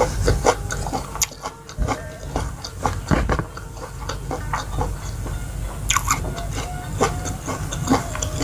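Close-miked chewing of crispy fried egg and rice, with many short wet mouth clicks and crunches.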